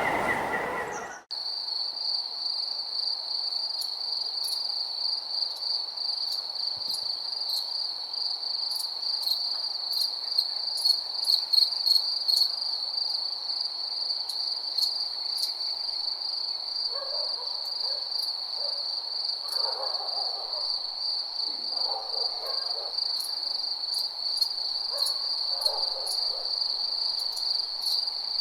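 A night chorus of crickets making a steady, high, unbroken trill, with scattered ticks over it. It comes in after a fuller, louder ambience cuts off abruptly about a second in. From about the middle onward, faint lower calls come and go behind the trill.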